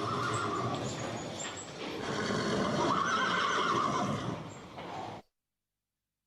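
Animal calls: two drawn-out cries over a noisy background, the second, about three seconds in, the louder. The sound cuts off abruptly a little after five seconds.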